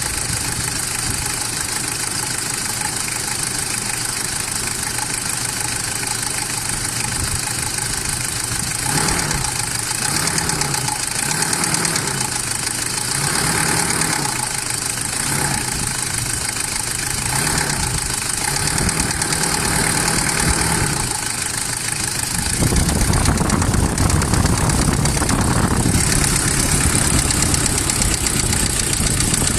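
Toyota Hilux Surf 185 engine idling, then revved and let fall back repeatedly. From about three-quarters of the way through a louder rattling sets in, the abnormal noise that the owner was told comes from oil starvation caused by clogged oil passages.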